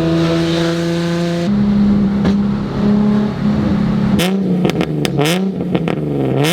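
Nissan 350Z HR's VQ35HR V6 running through a full titanium Tomei Expreme Ti single-exit exhaust, idling high and loud just after start-up. From about four seconds in it takes a string of quick throttle blips, each revving up and falling back.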